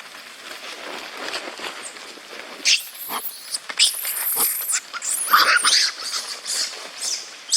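Monkeys screeching and squealing: a run of loud, high-pitched cries starting about three seconds in, over a low rustling background.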